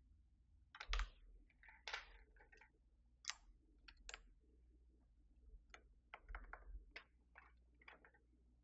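Plastic keycaps being handled and pressed onto a mechanical keyboard's switches: faint, irregular plastic clicks and light rattles.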